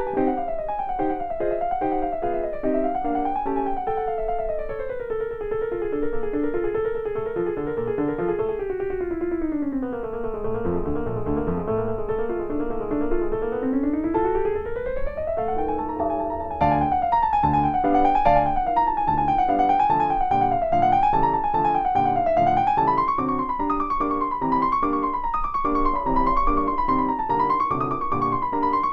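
Background piano music playing quick rising and falling runs over repeated chords. It thins out in the middle and comes back fuller about two-thirds of the way through.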